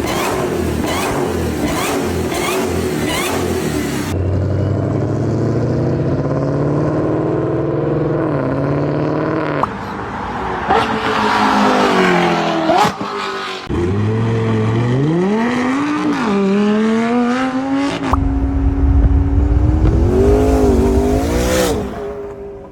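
A series of different performance-car engines, one after another, each revving up and down in rising and falling pitch. The sound changes abruptly several times as one car gives way to the next.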